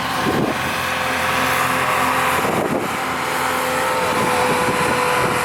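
A pulling vehicle's engine running at a steady pitch, over a constant background hiss.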